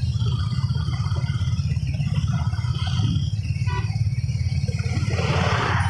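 Motorcycle engine running steadily while riding, a low rumble under road and wind noise, with a brief rushing hiss near the end.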